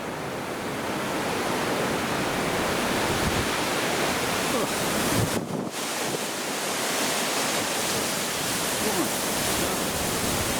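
Strong wind gusting through a snowstorm, a steady rushing noise with wind buffeting the microphone. It drops briefly about five and a half seconds in.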